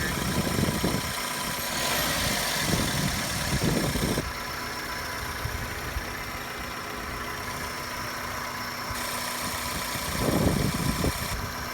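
The 1ZZ-FE 1.8-litre four-cylinder engine of a 2001 Toyota Corolla idling steadily with the hood open. It sounds healthy, like a 47,000-mile engine.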